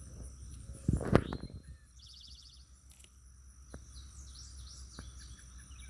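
Songbirds chirping in short quick phrases over quiet outdoor ambience, with a brief louder sound about a second in.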